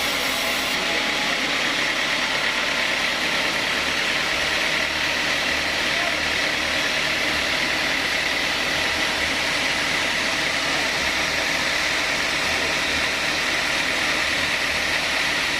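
Sawmill machinery running steadily: a continuous mechanical drone with a steady high whine.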